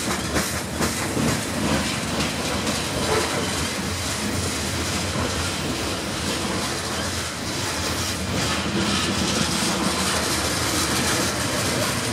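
Covered hopper cars of a grain train rolling past, steel wheels clacking over the rail joints over a steady rumble.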